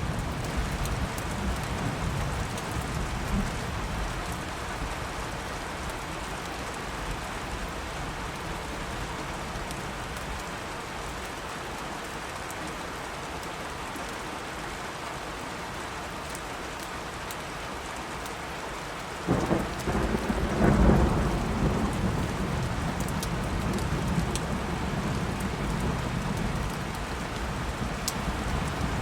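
Steady heavy rain with rolling thunder: a low rumble fades away over the first half, then a sudden loud thunderclap breaks about two-thirds of the way in and rumbles on as it slowly dies down.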